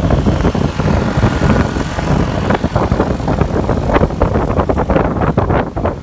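Wind buffeting the microphone in a moving car, over the taxi's engine and road noise.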